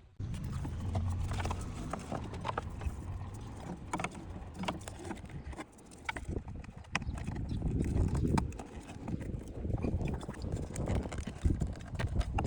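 Irregular light knocks and clicks of parts being handled during repair work, over a low rumble.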